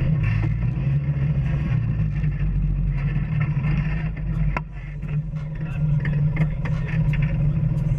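Off-road vehicle engine running steadily on a rough trail, with scattered rattles and knocks over it and one sharp knock about halfway through.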